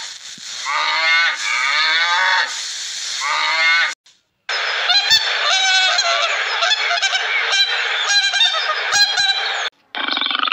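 A sea lion barking: a run of loud honking calls, each falling in pitch, about a second apart. After a short break, elephants trumpeting: a harsh, rasping, pulsing call lasting about five seconds that cuts off near the end.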